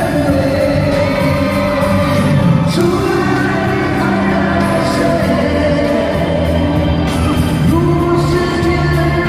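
Live pop-rock band playing while male vocalists sing a held, sustained melody, amplified through a PA and heard at a concert.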